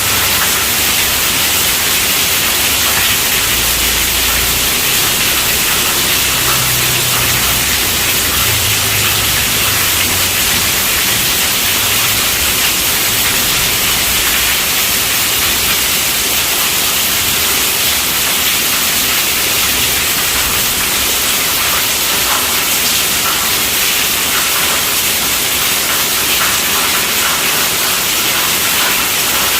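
Steady rainfall, a continuous even hiss of falling drops.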